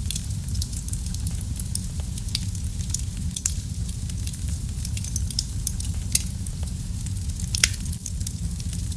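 Wood fire crackling in a fireplace: a steady low rumble of flames with irregular sharp pops and snaps, the loudest about seven and a half seconds in.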